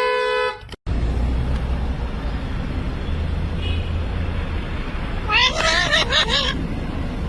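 A horn gives a steady toot that ends within the first second. After a break, a low rumbling noise runs on, and about five seconds in an animal, likely a cat, gives a wavering, bending cry lasting about a second.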